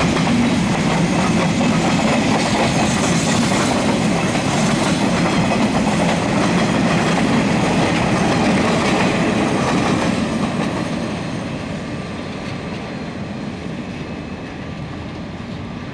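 Coal train wagons rolling past on the rails, loud and steady, then fading from about ten seconds in as the end of the train goes by.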